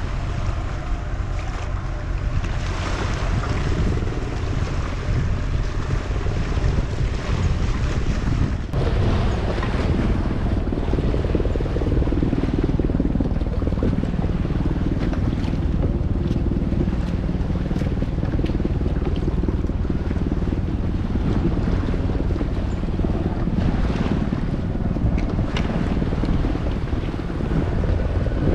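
Strong wind buffeting the microphone over choppy lake water: a steady low rumble of gusts with the wash of waves.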